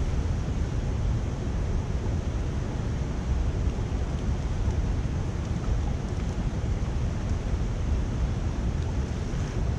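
Water rushing steadily through a culvert drain, a continuous even rush with no breaks.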